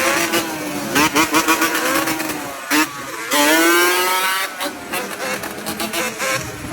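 Motorcycle engine revving hard, its pitch climbing and falling several times, with a long rising rev about halfway through and sharp crackling pops between revs.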